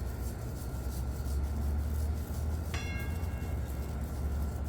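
A steady low hum, with a single bell-like metallic ring about three seconds in that fades within a second.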